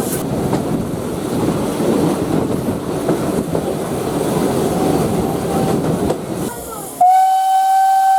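Rumble and rattle of a train running on the track, then about seven seconds in the whistle of the Ty42 steam locomotive sounds: one loud steady tone that starts suddenly and holds.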